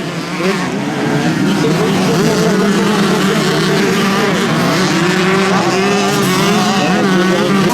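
Motocross bike engines racing, the engine note rising and falling as the bikes accelerate and ease off.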